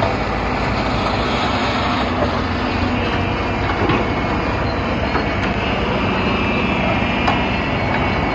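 Hitachi ZX200 excavator working at a truck: its diesel engine runs steadily under load, with a few sharp knocks and a high whine that gets stronger towards the end.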